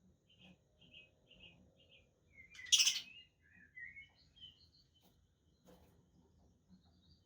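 Budgerigars chirping: a run of short, quick chirps, then one loud call about three seconds in, followed by softer warbling chirps.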